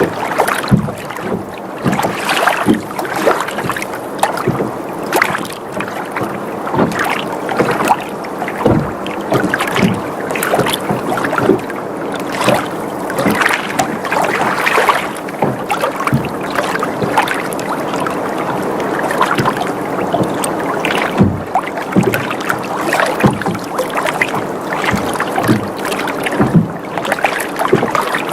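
Water sloshing and lapping against a boat's hull, a continuous wash broken by many small irregular splashes and knocks.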